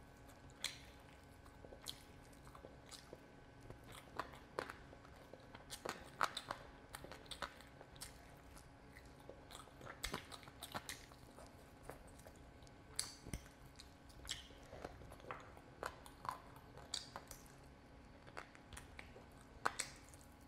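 Close-miked chewing and biting of curried chicken leg pieces: irregular short clicks and smacks of the mouth and teeth on the meat, with no speech.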